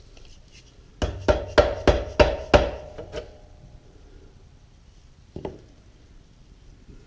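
Six quick hammer strikes on metal, about three a second, each with a short metallic ring, then a single knock a few seconds later.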